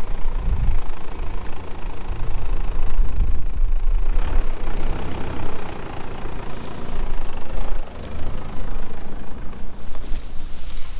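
Car engine running with a steady deep rumble as a vehicle drives off, with more hiss from the road or air over about the last second.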